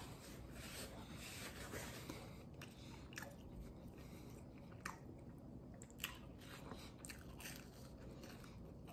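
Faint chewing of pizza crust, with wet mouth clicks scattered through and two sharper clicks around the middle.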